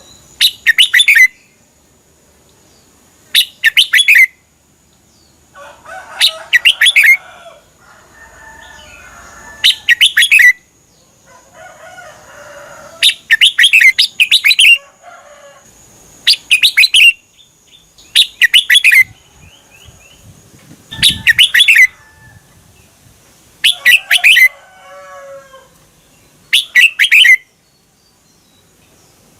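Red-whiskered bulbul singing: loud, short warbled phrases of about a second each, repeated roughly every three seconds, with softer, lower chattering calls between them. A faint steady high whine runs under the first two-thirds and fades out.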